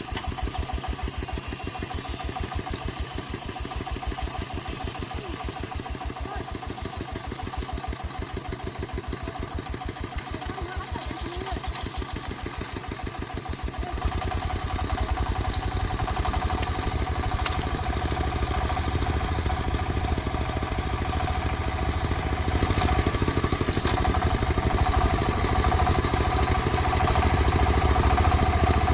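Agricultural timber-hauling vehicle's engine running with an even, steady beat, growing louder about halfway through as it picks up revs or load.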